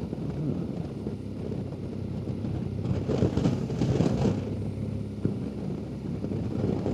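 BMW GS adventure motorcycle running at road speed: a steady engine hum under wind rush, swelling briefly about three seconds in.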